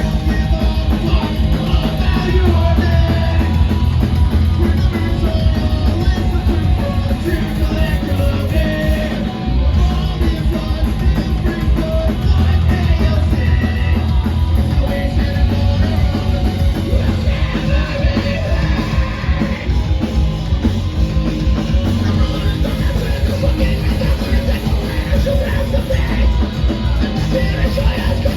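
Punk band playing live: loud, fast distorted guitar, bass and drums with yelled vocals.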